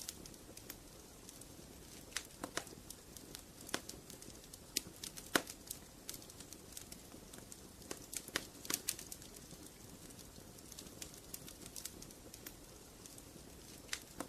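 Wood fire crackling in a fireplace: irregular sharp pops and snaps over a soft steady hiss. The loudest pop comes about five seconds in, with a quick cluster of pops a few seconds later.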